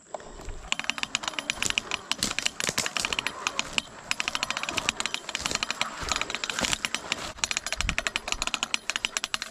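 Electric fence wire being wound onto a hand-cranked fence reel: a long, rapid run of ratchet clicks.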